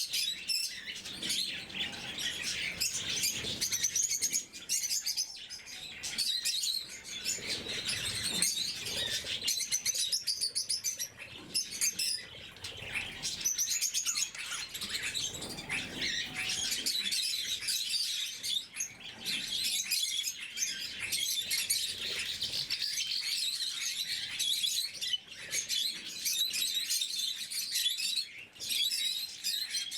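A flock of lovebirds chattering in a continuous stream of rapid, high-pitched chirps.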